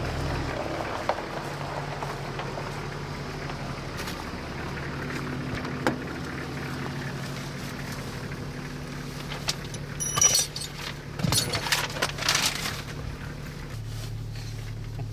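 Engine running steadily with a low hum, with a few sharp clicks and a spell of louder clattering and rattling about ten to thirteen seconds in.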